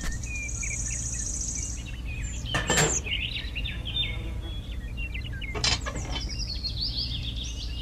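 Birds chirping over a steady low background rumble, with two brief sharp sounds, about three seconds and six seconds in.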